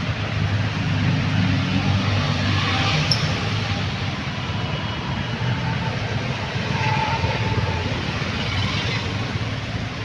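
Steady vehicle and traffic noise, with a low engine hum underneath.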